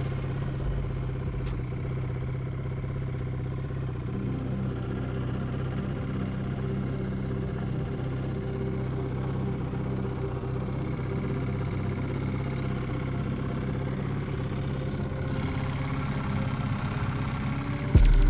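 Honda Twinstar 200cc motorcycle's parallel-twin engine running steadily, its pitch holding even with no revving.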